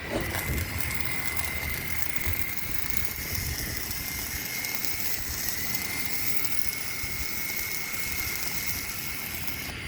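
Arc welding: the welding arc's steady crackling sizzle, with a steady high tone under it, cutting off near the end.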